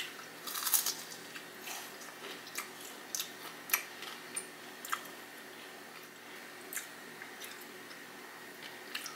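Close-miked biting and chewing of a fried pickle with a crunchy Flamin' Hot Cheeto crust: a burst of crunches about half a second in, then single crisp crunches at intervals that thin out after about five seconds.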